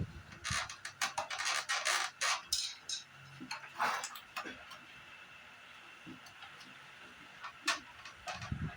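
Hand-worked parts and tools clicking and scraping: a run of short, irregular clicks for the first four seconds or so, then a lull and a single click near the end.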